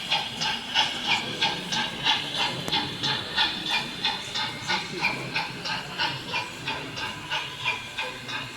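Steam locomotive chuffing at a steady pace, about three even beats a second over a constant hiss, typical of a sound-fitted model steam engine running on a layout.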